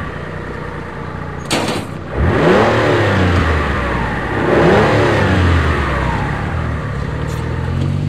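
A car's engine heard from inside the cabin, revving up as the car pulls away, then easing off and revving up again about two seconds later. A short burst of noise comes about one and a half seconds in.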